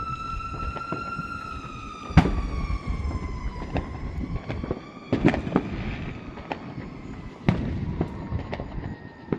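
Fireworks bursting: a loud bang about two seconds in, a cluster of bangs around five seconds in, another sharp bang about seven and a half seconds in and a smaller one near the end. Behind them a long held tone slowly rises and falls in pitch, then fades.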